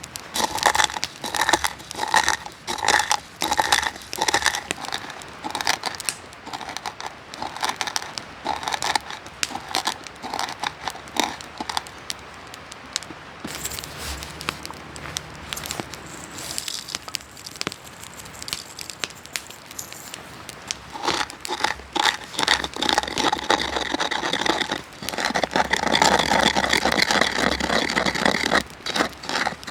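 Campfire crackling with scattered pops, under repeated handling strokes: about two a second in the first few seconds, and a denser, louder run near the end.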